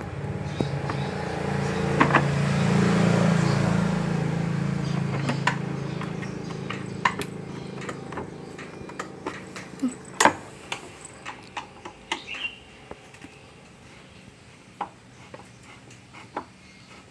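A low engine hum swells over the first few seconds and slowly fades away, like a motor vehicle passing by. Scattered sharp clicks and knocks, with a loud knock about ten seconds in, sound like parts and tools being handled.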